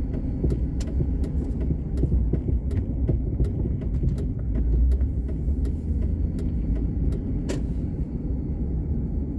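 A car driving: a steady low rumble, with faint sharp ticks scattered throughout and one louder click near the end.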